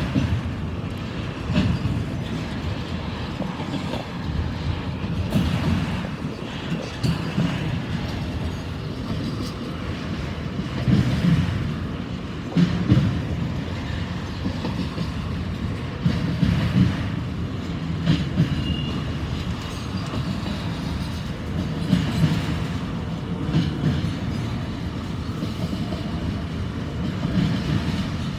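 Freight train of empty auto rack cars rolling past: a steady low rumble with the wheels clacking over rail joints in a repeating rhythm.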